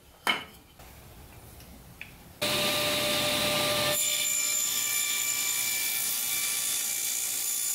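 Table saw cutting a rabbet into the end of a wooden board: a short knock, then a couple of seconds in the saw noise starts abruptly and runs steadily with a high whine, its sound changing partway through.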